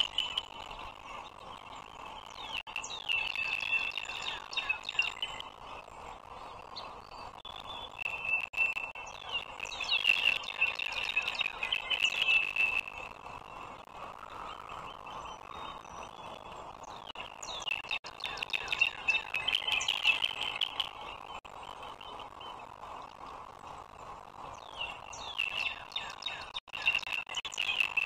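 Bird chirping in four bursts of quick, high chirps a few seconds long, with a steady faint hiss underneath.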